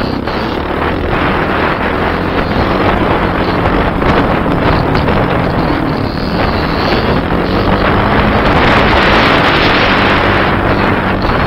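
Kawasaki KLX300R's single-cylinder four-stroke engine running under way on a dirt trail, its note shifting with the throttle, under heavy wind rush on the microphone. The wind rush grows louder about eight seconds in.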